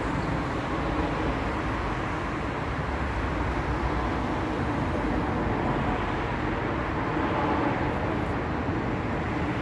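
Steady roar of a Boeing 737-400's jet engines and rushing air, holding an even loudness throughout.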